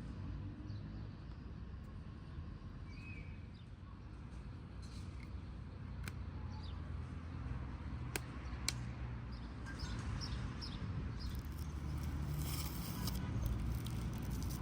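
Outdoor ambience: small birds chirping again and again over a steady low rumble, with three sharp clicks in the middle.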